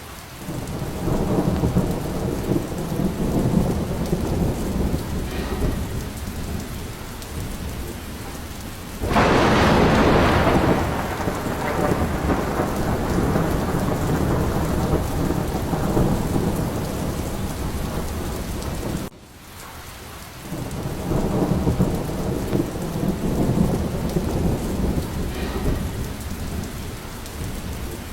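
Thunderstorm: steady heavy rain with rolling thunder. A loud thunderclap breaks about nine seconds in and rumbles away slowly, and the thunder builds again in the second half.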